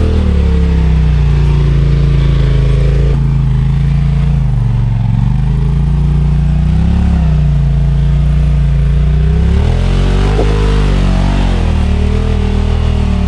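Side-by-side UTV engine running loud under throttle, its pitch swinging up and down several times as the driver works the gas over rough trail.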